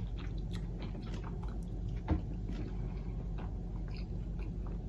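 A person chewing a mouthful of food with small, soft mouth clicks, and one slightly louder tap about two seconds in.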